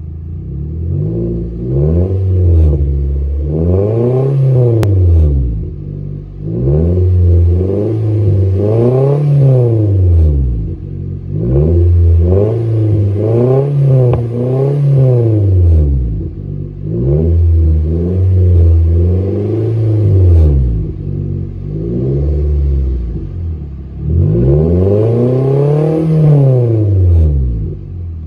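Exhaust of a 2018 Nissan Altima 2.5 SR with its 2.5-litre four-cylinder engine, revved up and let fall back again and again, about eight times, each rev rising and dropping within a second or two.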